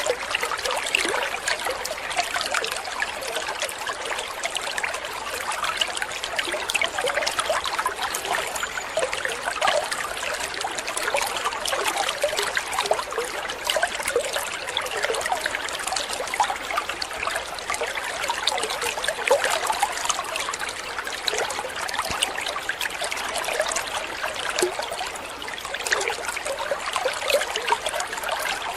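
Running water trickling and splashing steadily, many small splashes over a continuous wash.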